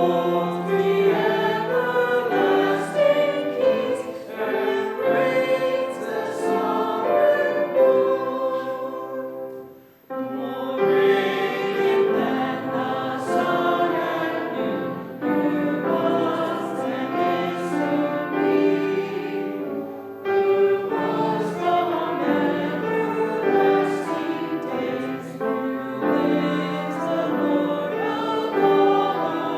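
A church congregation singing a hymn together, with a brief break about ten seconds in between sung lines.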